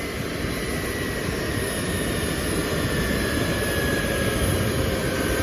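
Boeing 737-200's Pratt & Whitney JT8D turbofan engines running: a loud, steady jet roar with a whine that falls slowly in pitch, growing slightly louder.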